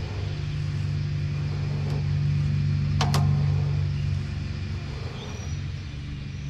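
Steady low machine hum with one sharp click about three seconds in.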